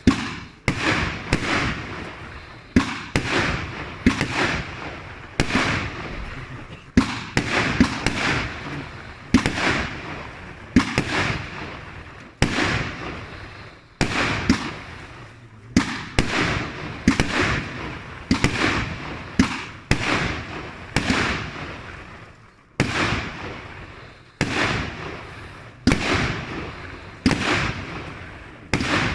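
Automatic single-ignition firework cake firing shot after shot, a sharp bang roughly every second, each followed by a fading crackle.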